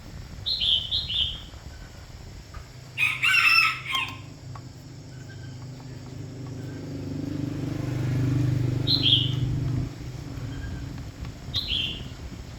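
Birds calling: short high chirps several times, and one loud call lasting about a second, a few seconds in. A low hum swells and then fades from about six to ten seconds.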